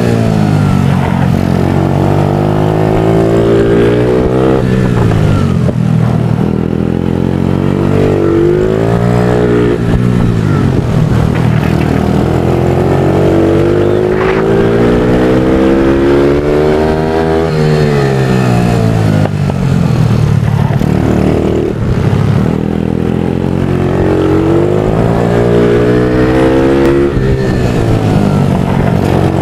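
Motard motorcycle engine heard from on board during a race lap, its pitch climbing under acceleration and falling away when braking for corners, several times over.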